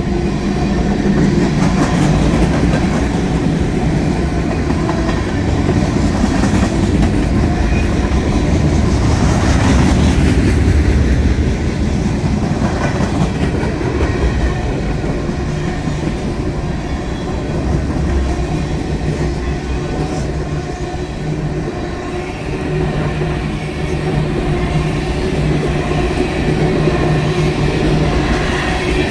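Freight train cars rolling past close by, a steady loud rumble with wheels clacking over the rail joints.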